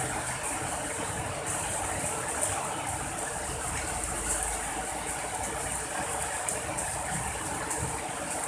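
Steady rain falling, an even hiss of rainfall with a low rumble swelling briefly in the middle.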